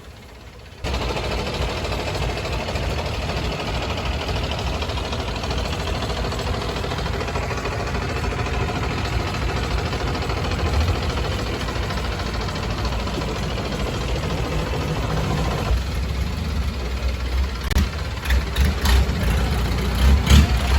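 Motorboat engine running steadily, its sound changing about sixteen seconds in, with a few clicks near the end.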